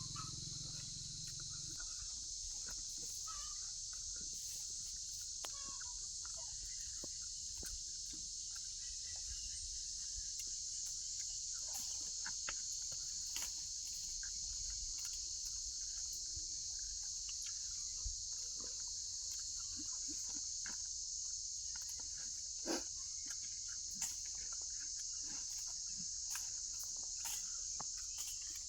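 Steady high-pitched insect chorus with scattered faint clicks and taps. Two sharper taps come about three-quarters of the way through.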